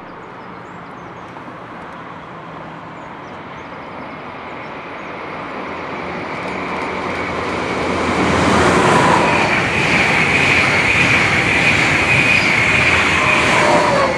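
A train approaching and passing close by. Its rumble builds steadily for about eight seconds into a loud rush with a whine, and the whine's pitch drops near the end as it goes by. Birds chirp faintly at first.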